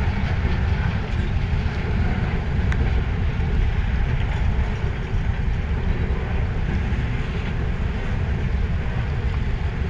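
Freight train's covered hopper cars and boxcars rolling steadily past, a continuous rumble of steel wheels on rail, with heavy rain hissing over it.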